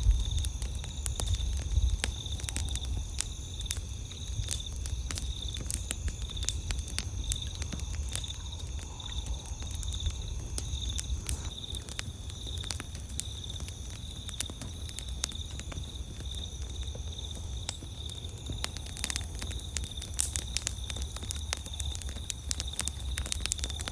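Campfire crackling, with frequent sharp pops and snaps, over a steady high pulsing trill of night insects and a low rumble underneath. One of the two insect trills stops about halfway through.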